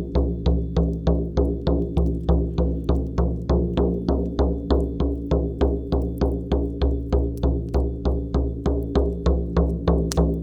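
Shamanic frame drum beaten in a steady, even rhythm of about three strikes a second, each strike a deep ringing boom.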